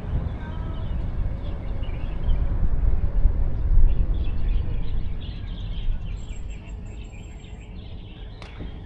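Outdoor field ambience: a low, steady rumble that eases after about five seconds, with small birds chirping over it throughout. A single sharp click comes near the end.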